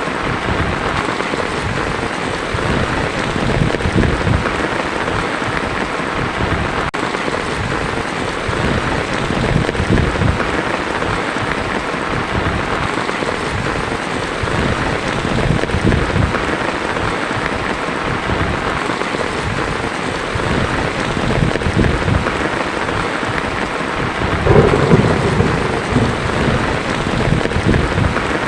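Heavy rain falling steadily on a tin roof, with thunder rumbling low beneath it; the thunder swells louder for a few seconds near the end.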